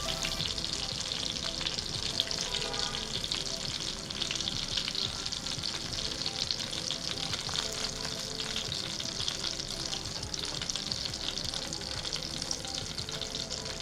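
Breaded chicken nuggets sizzling steadily as they deep-fry in hot oil in a pan.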